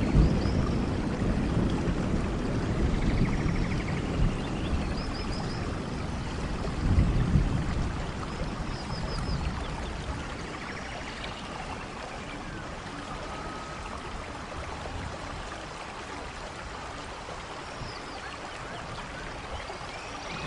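Steady rain falling in a forest, with low thunder rumbles near the start and again about seven seconds in that die down in the second half. Faint chirping calls come and go over the rain.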